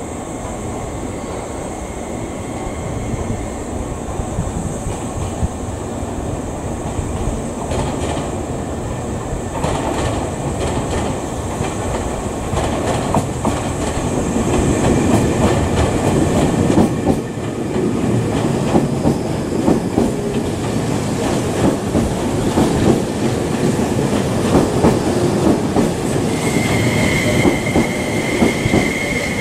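Tobu N100 series Spacia X limited express electric train running into the station, growing louder as it nears, its wheels clacking over the rail joints. A steady high squeal comes in near the end as the cars pass.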